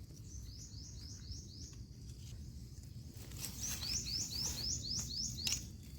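A bird calling in two quick runs of short, high, repeated chirps, each note dropping at the end: about five notes early on, then about eight more from the middle onward.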